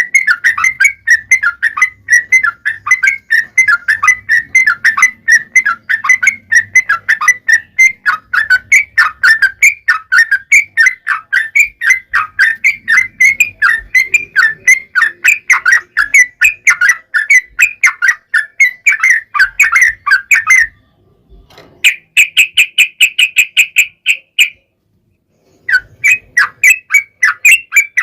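Yellow-vented bulbul (trucukan) singing a long, fast run of short chattering notes, several a second. It breaks off about 21 seconds in, a short higher-pitched trill follows, and after about a second of silence the run starts again near the end.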